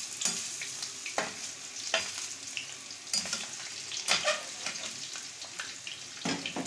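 Koftas sizzling as they shallow-fry in hot oil in a frying pan, with a metal slotted spoon clinking and scraping against the pan several times as they are turned.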